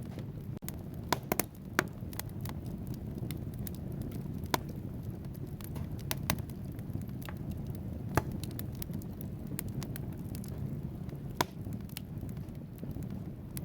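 Wood fire burning in a fireplace: a steady low rumble of flames with scattered sharp crackles and pops from the burning logs. There is a quick cluster of pops about a second in, then single louder pops every few seconds.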